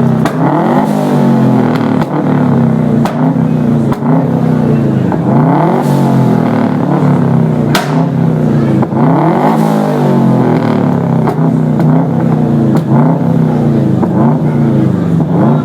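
Tuned Subaru Impreza's flat-four boxer engine revved again and again through its exhaust, the pitch climbing and dropping every couple of seconds. Several sharp pops from the exhaust come between the revs.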